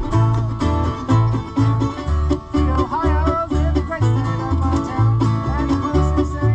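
Acoustic bluegrass band playing: banjo and guitar picking over a bass that alternates two low notes about twice a second.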